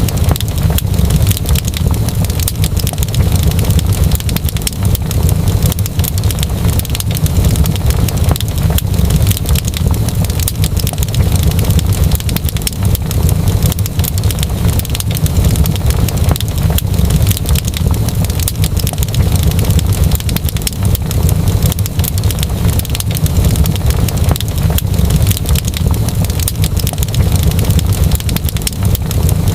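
Fireplace fire crackling steadily: dense small pops over a continuous low rumble.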